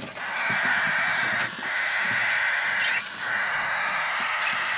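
Cockatiel chicks making harsh, raspy calls in three long stretches of about a second and a half each, with short breaks between.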